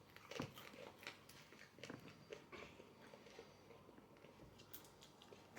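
Faint mouth sounds of people biting and chewing fresh bird's eye chili peppers: small irregular crunches and wet clicks.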